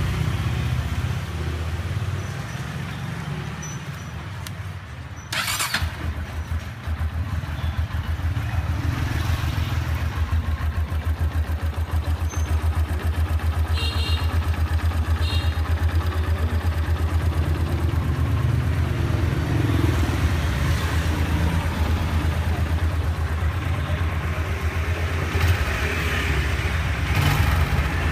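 Honda air-cooled single-cylinder motorcycle engine starting and then idling. There is a sharp noise about five seconds in, after which the engine settles into a steady, fast putting beat.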